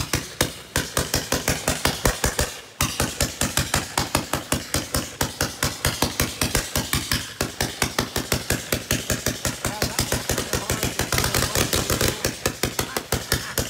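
A 156-shot firework cake firing shot after shot in rapid succession, about five bangs a second, with a brief break nearly three seconds in.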